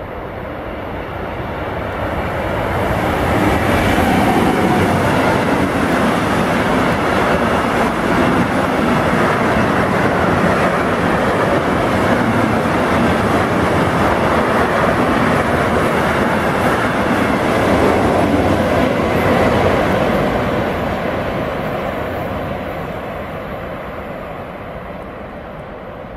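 Freight train of tank wagons behind an electric locomotive passing on the main line: the rolling noise of the wheels on the rails swells over the first few seconds, holds steady while the wagons go by, and fades near the end as the train draws away.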